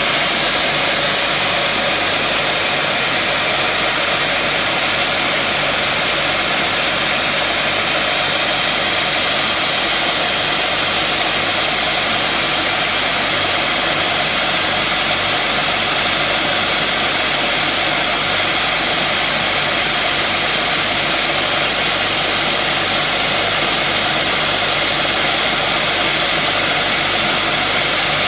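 High-speed power tools running steadily under load as a shock absorber strut's rod is polished with coolant emulsion, giving a loud, even hiss and whine.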